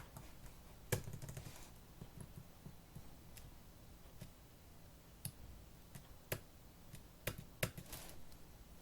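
Laptop keyboard keys pressed in scattered single strokes and short quick runs, rather than steady fast typing. There is a quick run of keystrokes about a second in, and a few louder single key clacks near the end.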